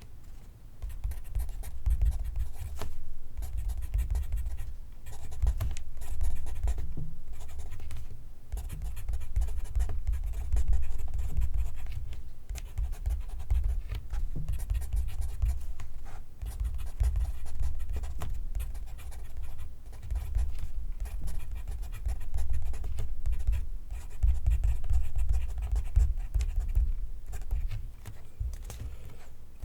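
Pencil writing on paper, close up: continuous scratching strokes with brief pauses between words.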